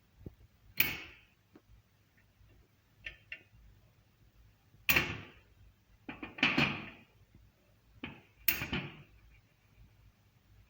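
Hand tools and metal parts being knocked and set down during car repair work: a handful of sharp knocks and clanks, the loudest about a second in, around five seconds in and late on.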